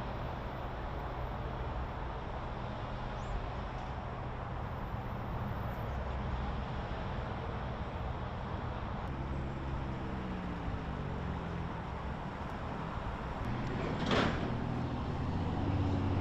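Outdoor traffic ambience: a steady engine hum under a constant rush of noise. About ten seconds in, a vehicle passes with a falling pitch, and near the end there is a short loud swish.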